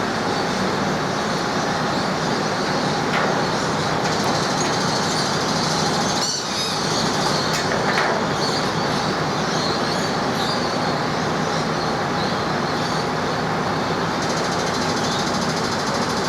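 Steady, loud running noise of an engine or machine, with a brief dip about six seconds in.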